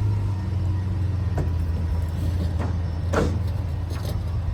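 Vehicle engine idling with a steady low hum, with a few short scuffs or clicks over it, the most prominent a little after three seconds in.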